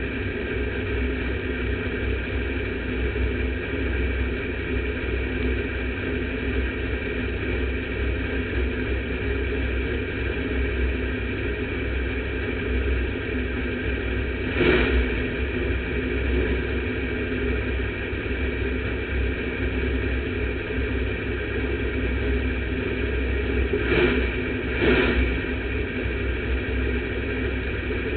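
Sportmod race car's engine idling, heard from inside the car. It gets briefly louder three times, once about halfway through and twice in quick succession near the end.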